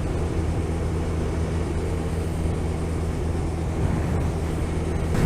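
Motorcycle engine running steadily at cruising speed, an even low hum with wind and road noise over it.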